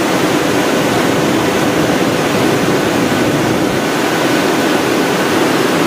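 Steady, loud roar of MC-130P Combat Shadow aircraft noise, a rushing sound with a faint steady hum running through it.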